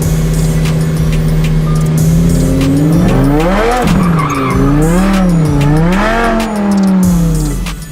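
Supercharged Lamborghini Huracán V10 engine holding a steady note, then revving hard, its pitch rising and falling three times before dropping away near the end. It is very loud.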